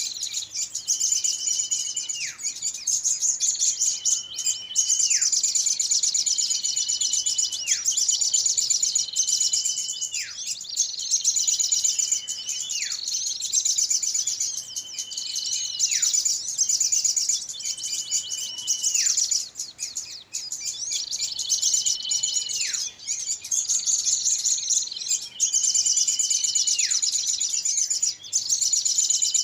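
Bird-lure recording of small songbirds calling: a dense, rapid high-pitched chatter runs throughout. Every two to three seconds a held whistle ends in a sharp downward slide in pitch.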